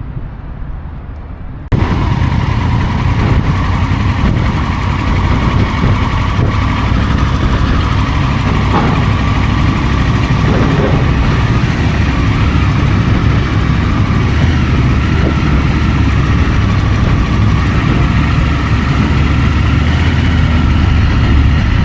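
Vehicle engines running steadily under a loud, constant rushing noise, which cuts in abruptly about two seconds in after a quieter stretch of low engine idling.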